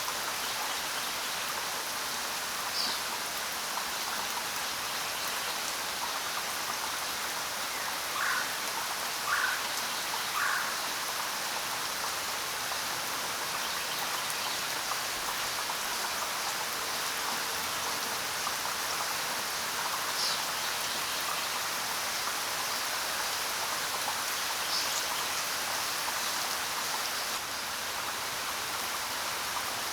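Steady rain falling, a constant hiss of drops, with a few brief bird chirps over it: three short notes in a row about eight to eleven seconds in, and single higher chirps now and then.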